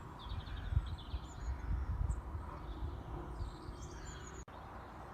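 Small birds chirping in the background, many short high chirps over a steady low outdoor rumble. The sound cuts out for an instant near the end.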